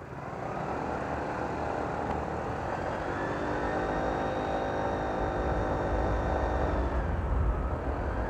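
Honda PCX scooter engine and CVT pulling away and gaining speed, with a high, turbo-like whine ("nging") from the aftermarket CBU PCX CVT fan that sets in about three seconds in and holds steady. Low wind rumble on the helmet-mounted microphone runs underneath.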